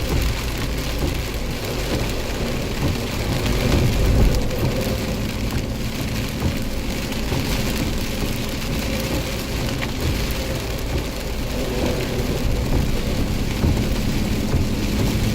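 Heavy rain pouring down in a thunderstorm: a dense, even wash of rain with low rumbling underneath that swells about four seconds in. A faint steady hum runs beneath the rain near the start and near the end.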